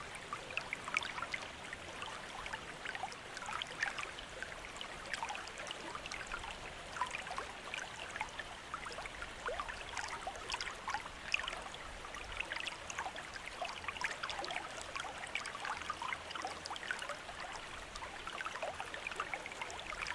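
Water trickling steadily from a bamboo fountain spout, with many small splashes and plinks of falling water.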